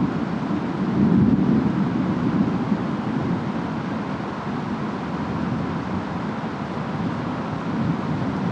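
Distant rainstorm ambience: a steady low rumble of wind and rain, swelling slightly about a second in.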